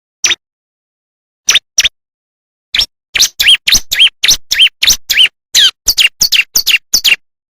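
Bar-winged prinia (ciblek) singing: a few spaced, sharp high chirps, then from about three seconds in a fast run of chirps, about four a second, each a quick sweeping note.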